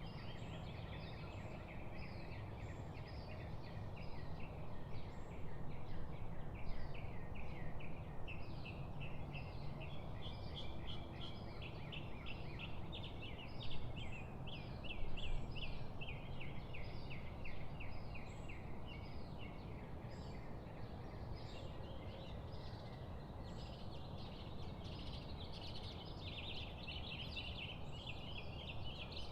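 Many birds chirping and chattering in quick, overlapping runs of short high calls, over a steady low rumble.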